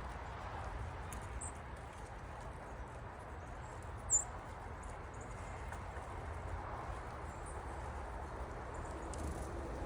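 Small wild bird giving one short, high chirp about four seconds in, with a few fainter high chirps, over a steady low rumble and hiss.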